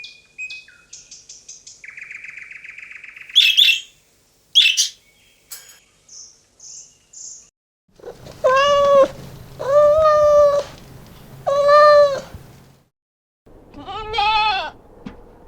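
A run of animal calls: short chirps, clicks and a buzzy trill at first, then three long, evenly pitched calls about a second apart and a fourth shorter one near the end.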